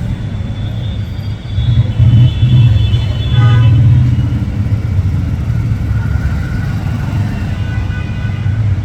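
A steady low engine rumble that swells louder for about two seconds, starting about two seconds in, with faint high tones over it.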